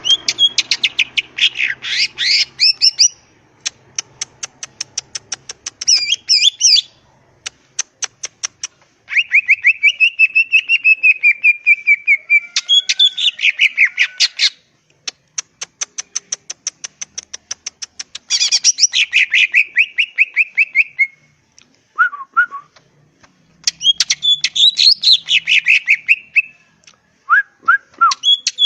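Cucak ijo (green leafbird) in full song: a loud, varied song of rapid runs of sharp clicking notes alternating with whistled phrases, with short pauses between bouts.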